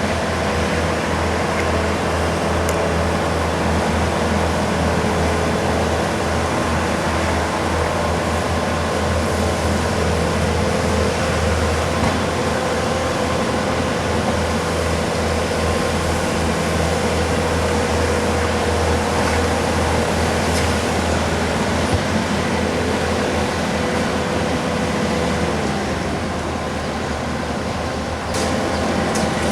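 Bobcat skid steer diesel engines running steadily under load during road milling and sweeping, giving a continuous low drone with dense mechanical noise over it. The noise eases slightly a few seconds before the end.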